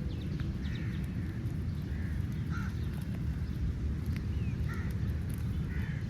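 Crows cawing, about half a dozen short harsh caws at irregular intervals, over a steady low rumble.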